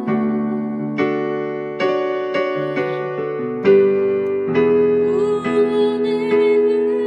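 Electric keyboard playing a slow worship-song melody over held chords, a new note or chord about every second.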